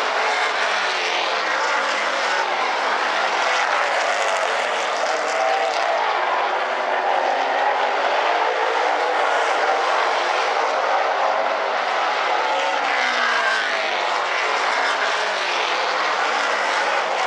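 A field of super late model race cars running at speed around a short oval, their V8 engines droning together and rising and falling in pitch as cars come through the turns and pass by.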